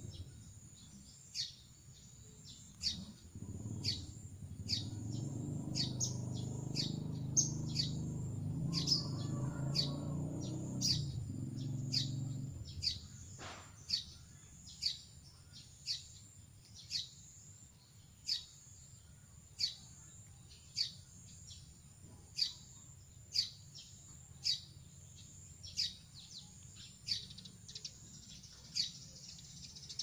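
A bird repeatedly gives short, high chirps that sweep downward in pitch, about one a second. A low droning hum sits under the calls for the first dozen seconds, then drops away.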